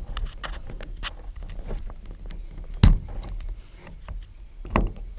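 Hino 500 truck cab rattling and knocking while driving, over a low steady diesel engine rumble, with heavier thumps about three seconds in and again near the end.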